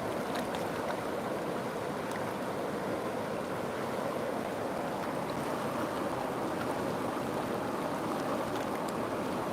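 River water flowing, a steady even rush with faint little splashes scattered through it.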